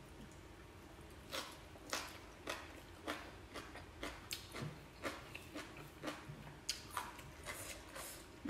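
A person chewing rice eaten by hand, with short wet mouth clicks and lip smacks coming irregularly, about two a second.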